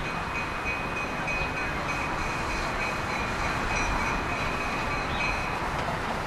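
Metra Electric commuter train approaching along the line, a steady running noise with a thin high whine above it that fades near the end.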